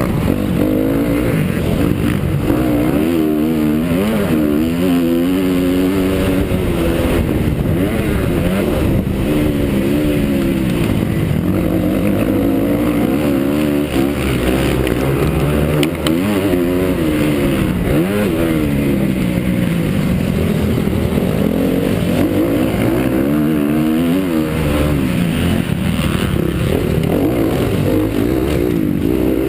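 Honda CRF 250 four-stroke motocross bike engine revving hard and backing off again and again as it is ridden around the track, its pitch rising and falling every second or two, with wind noise on the microphone.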